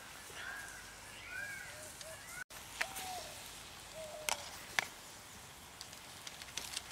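Short chirping bird calls, several in a row, with a few sharp clicks of a ladle knocking against a clay cooking pot as vegetables are stirred.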